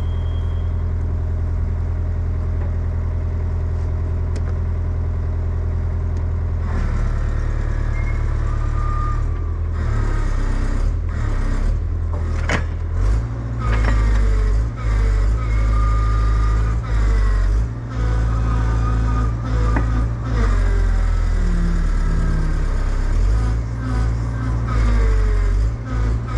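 Excavator's diesel engine running steadily, then from about seven seconds in, working under hydraulic load, its level rising and falling, with whining hydraulics and a few sharp metal clanks as the machine is worked to get a thrown track back on.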